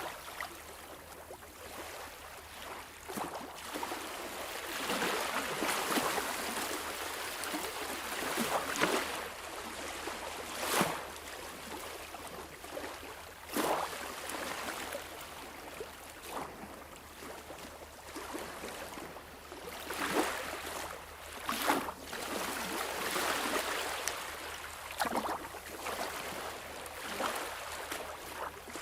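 Sea water lapping and splashing: a steady wash with sharp splashes every few seconds, without deep booming surf.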